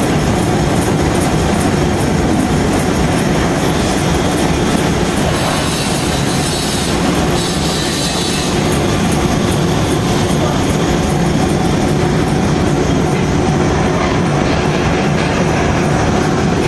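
Portable milling machine cutting the steel rails of a dredger's spud carriage: a loud, steady metal-cutting noise with a constant low hum and a squealing edge.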